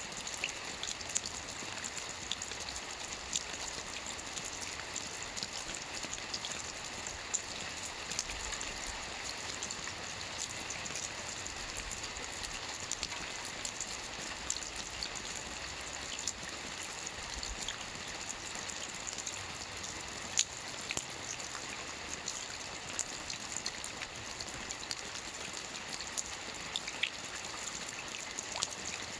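Soft rain falling on a roof: a steady hiss with many small, sharp drop ticks scattered through it.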